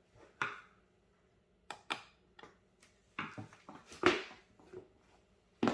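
Scattered clicks, taps and short scrapes of hands working on parts inside a desktop PC case while a Wi-Fi card is being fitted. The loudest scrape comes about four seconds in.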